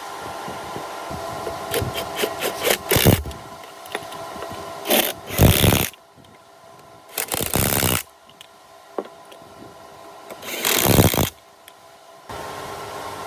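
A power tool run in four short bursts of about a second each, over a steady mechanical hum that drops away partway through and returns near the end.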